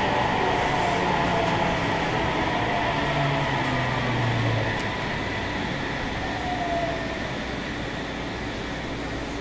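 Inside a Sendai Subway 1000N series car slowing into a station: the motor whine falls in pitch and the rolling noise fades as the train comes to a stop. The car's air conditioning runs steadily underneath.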